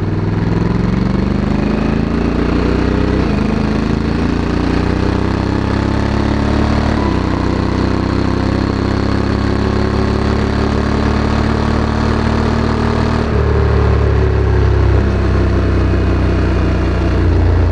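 Honda Africa Twin CRF1100 DCT's parallel-twin engine through its stock exhaust under way, pulling up through the gears. The pitch rises and drops back at automatic gear changes about three and seven seconds in, holds steady, then changes abruptly about thirteen seconds in.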